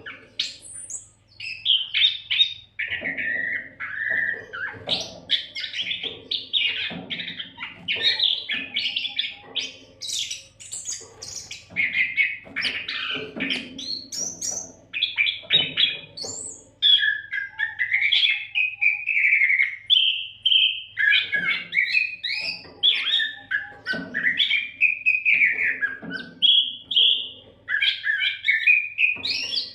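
Oriental magpie-robin (kacer) singing without a break: a long, varied run of quick whistled glides and chattering phrases, sung at length.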